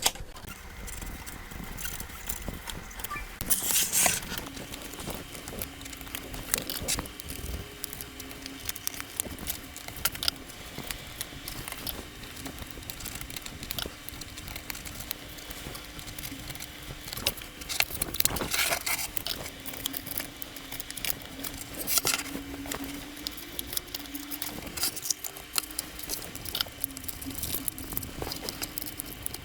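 Small clicks, taps and scrapes of hand repair tools working at an iPad's glass and frame, with a few louder scraping bursts, over a faint steady low hum.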